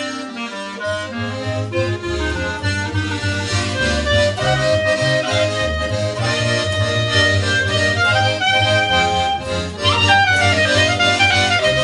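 Accordion playing a sustained melody over a steady bass line, in a live instrumental trio with guitar and bass, with a quick downward slide in pitch about ten seconds in.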